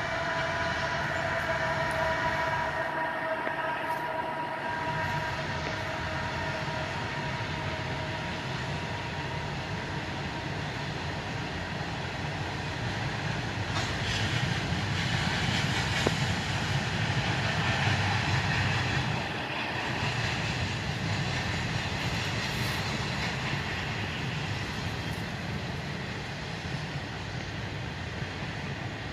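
CSX freight train rolling past, a steady rumble of wheels and cars that swells for a few seconds about halfway through. Over the first several seconds a chord of steady tones fades away beneath it.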